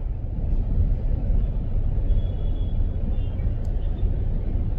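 Steady low rumble of a car driving along a city road: engine and tyre noise, with faint high tones in the middle and a tiny click near the end.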